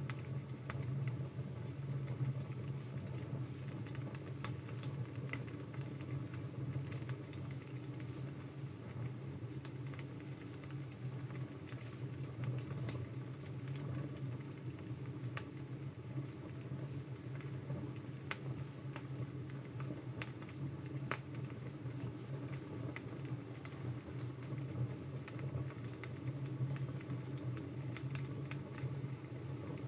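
Wood fire crackling: a steady low hiss and rumble with irregular sharp pops and snaps.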